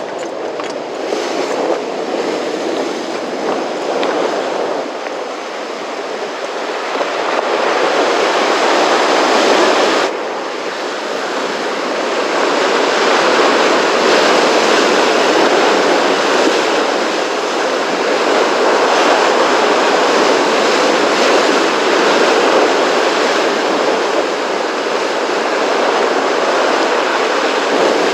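Rough, typhoon-stirred sea: a steady loud wash of surf, dipping suddenly about ten seconds in.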